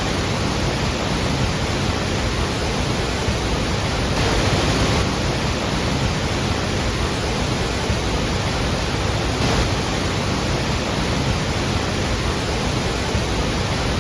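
Large waterfall at Iguazú Falls: a steady, dense rush of falling water with no breaks, swelling slightly about four seconds in.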